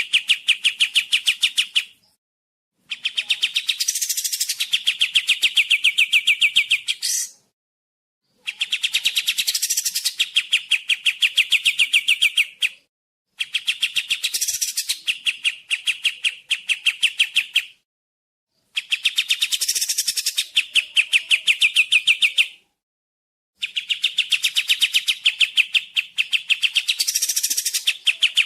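Kapas tembak songbird's song: a fast trill of short, clear, repeated notes, about a dozen a second, in phrases of four to five seconds broken by brief pauses. The phrases repeat almost identically, like a looped recording used to train other birds.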